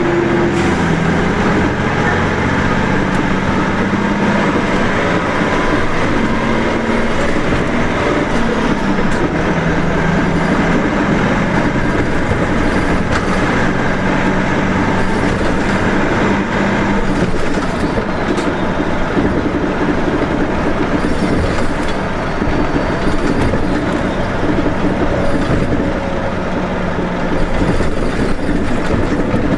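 Diesel engine of a route bus running while driving, revving high, its pitch climbing and dropping several times over the stretch.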